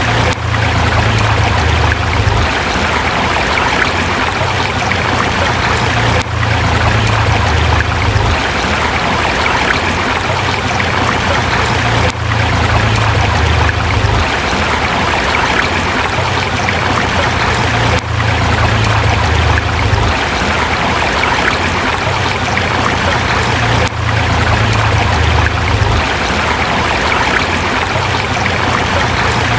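River water flowing steadily over rocks: a dense, even rush with a low rumble underneath. There is a brief dip in level about every six seconds.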